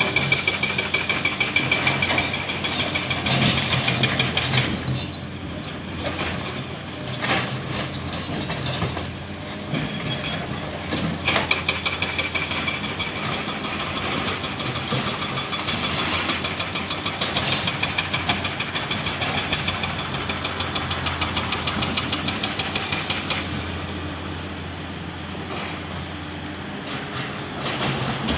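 Heavy diesel machinery at work: a Komatsu PC650 hydraulic excavator loading dump trucks, its engine rising and falling under load. A high whine comes and goes twice, with a few sharp knocks between.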